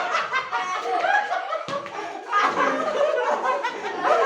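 Several people talking over one another and laughing, with a sharp slap or clap about two seconds in.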